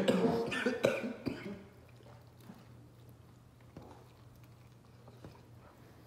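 A pained voice and coughing trail off in the first second and a half, then quiet chewing of chicken wings: faint wet clicks and smacks of mouths working on meat and bone, over a faint steady low hum.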